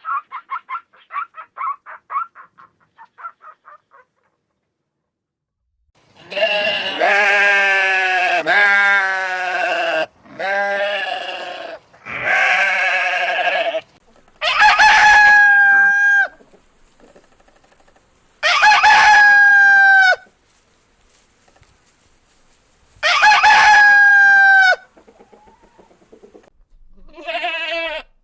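Hen clucking rapidly, then a rooster crowing repeatedly: a run of calls, then three long, clear crows a few seconds apart, each dropping in pitch at the end. A goat bleats briefly near the end.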